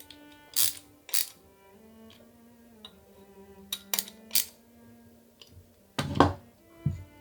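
Sharp clicks and clacks of small model-engine kit parts being handled and fitted together, about seven in all with the loudest cluster about six seconds in, over soft background music with sustained notes.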